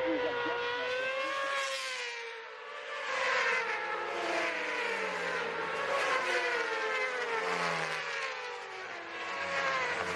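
Yamaha FZ6 (Fazer 600) inline-four engine running under way, its pitch rising and falling with the throttle. The revs dip about two seconds in, pick up again, then fall away over the last few seconds as the bike slows.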